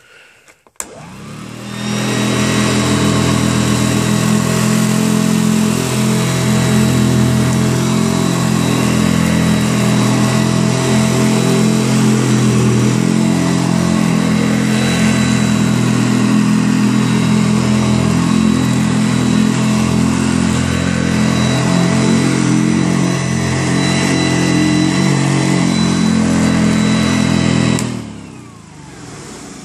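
1968 Hoover Junior upright vacuum cleaner starting up, its motor and beater-bar agitator running steadily on carpet with vigorous agitation, then switched off and winding down near the end.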